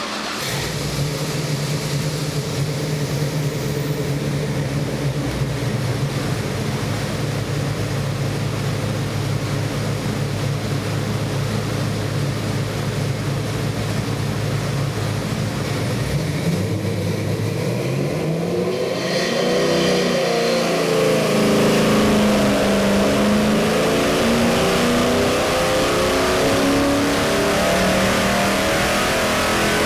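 383 Chevy small-block V8 with Inglese stack fuel injection running at a steady idle, then revving up about eighteen seconds in and being revved up and down repeatedly.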